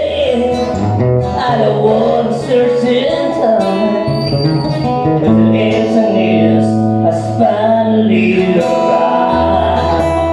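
Live band music: a voice singing a wavering melody over strummed acoustic guitar and a bass line that moves between held low notes.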